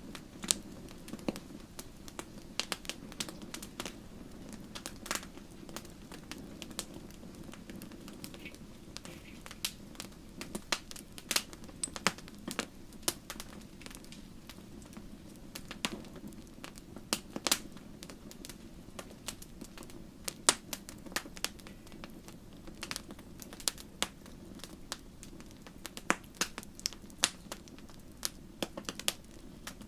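Wood fire crackling and popping in a fireplace: irregular sharp snaps, several a second, over a low steady rumble of the flames.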